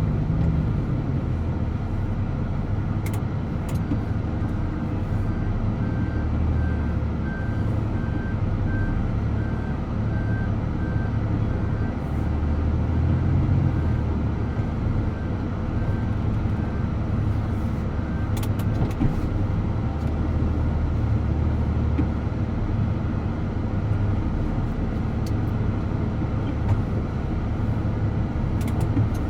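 DAF truck engine running while driving, a steady low drone. A faint, evenly repeating high beep sounds over it from a few seconds in until about two-thirds through.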